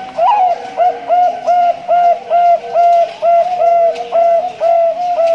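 Male Bangkok-line zebra dove (perkutut) singing: an opening note, then a quick, steady run of about a dozen short, even coos at roughly two a second. A fainter, lower coo from another dove sounds behind it.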